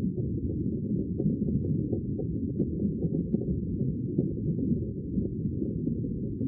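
Sea water heard as a steady, muffled low rumble, with faint small clicks and pops over it.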